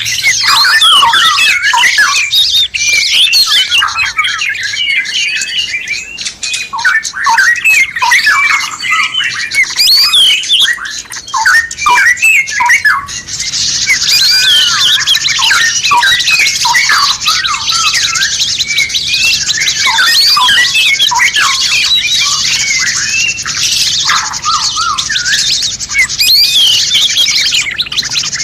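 A dense mix of songbird chatter, with many quick overlapping chirps and squawks. A steady high hiss joins about halfway through.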